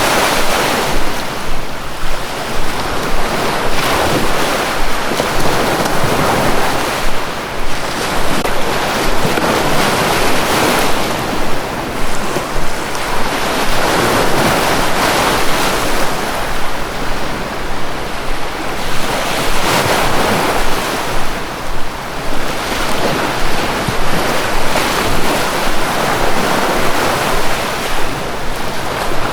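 Sea waves washing onto a shore, a steady rush that swells and eases every few seconds.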